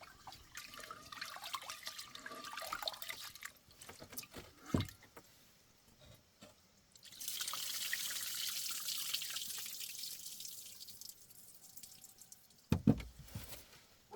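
Water dripping and splashing, then running in a steady stream for about four seconds, with a knock in between and a couple of thumps near the end.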